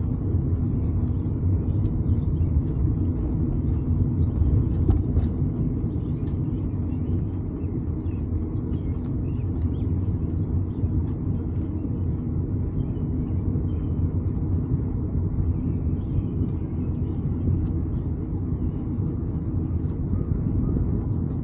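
Steady low rumble of wind and road noise from riding a bike, with a few faint ticks.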